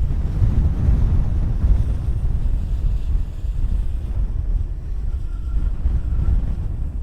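Strong gusting wind buffeting the microphone: a loud low rumble that swells and dips with the gusts.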